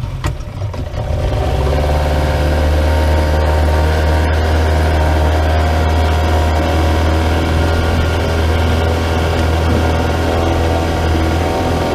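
An engine running steadily, picking up in level about a second in and then holding an even drone.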